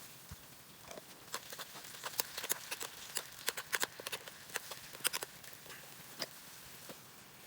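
Crackling and popping from a campfire cookout: a cluster of sharp, irregular pops over a faint hiss, thickest in the middle and thinning out near the end.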